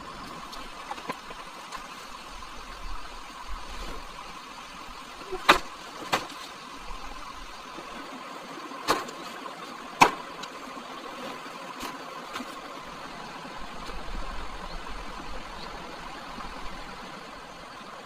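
A steady mechanical-sounding hum with four sharp knocks, two about five seconds in and two more about nine to ten seconds in.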